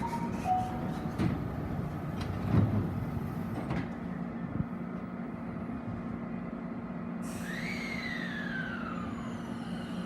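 Tobu 50070-series electric train at a platform: a few knocks as the sliding doors shut over the steady hum of the stopped train, then about seven seconds in a sudden hiss of the air brakes releasing and the inverter whine of the traction motors starting up, falling in pitch, as the train begins to pull away.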